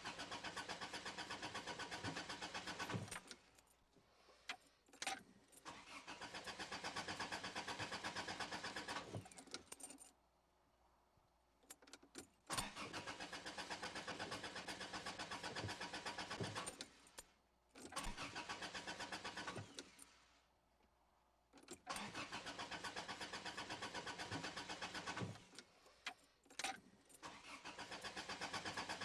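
A car engine being cranked by its starter motor in about six separate attempts of a few seconds each, with a fast, even chugging rhythm; the engine cranks but does not catch and run. Short clicks sound in the pauses between attempts.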